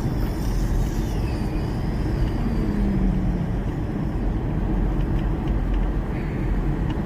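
Steady road and engine noise inside a moving car's cabin, with a low rumble from the tyres on the road surface.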